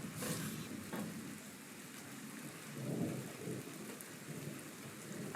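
Steady rain falling, with a low rumble of thunder swelling about three seconds in.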